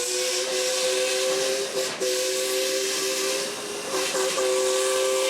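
Miniature steam locomotive's whistle sounding two notes together, held in long blasts broken briefly twice, over a steady hiss of steam.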